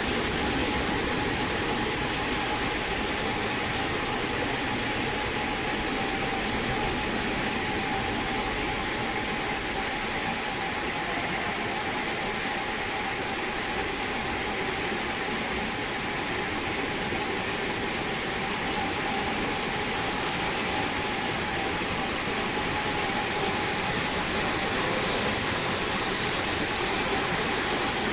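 Industrial wet floor cleaner running steadily as it scrubs a factory floor: an even mechanical rush with a steady whine.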